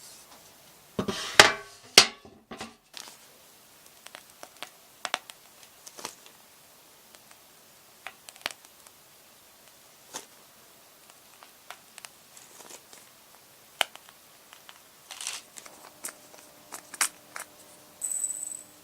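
A crinkling, crackly burst about a second in, then scattered light clicks and taps of small things being handled.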